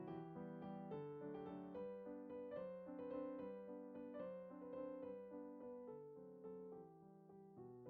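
Soft background piano music, gentle notes changing about twice a second.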